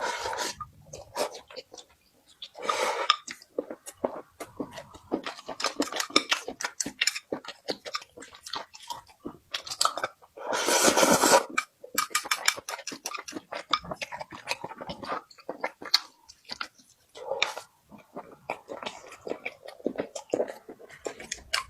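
Close-miked chewing and crunching of food, a dense run of irregular wet clicks and crackles, with a louder noisy burst about halfway through.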